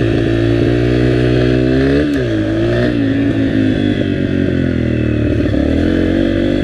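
Dirt bike engine running under throttle. Its pitch drops sharply about two seconds in and climbs back, then dips and rises again near the end, as the revs change.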